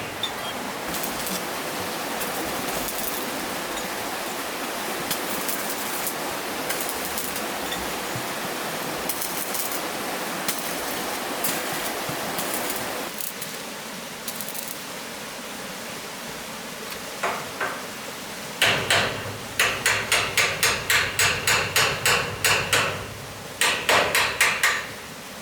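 A steady rushing noise, then, about two-thirds of the way in, rapid hammering with even strikes at about three to four a second, pausing briefly before a second short run near the end.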